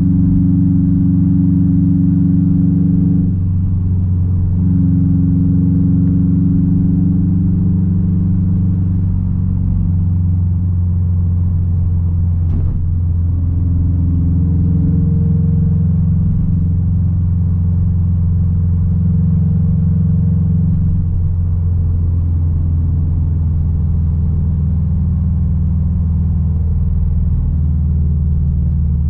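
Straight-piped 2006 Subaru WRX STI's turbocharged flat-four engine and exhaust droning steadily while driving, the note shifting a few times as the throttle changes. A brief click about halfway through.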